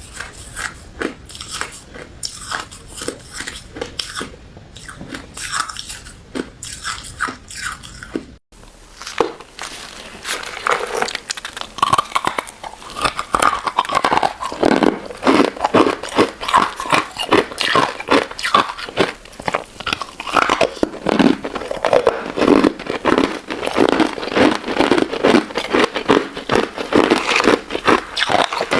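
Close-miked crunching and chewing of a crunchy crystal ice dessert: rapid, irregular crisp crunches with chewing between bites. About eight seconds in, the crunching turns louder and denser.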